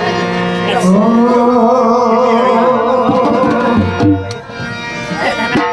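Gujarati folk dayro music: a long, slightly wavering held note over drum accompaniment, breaking off past the middle.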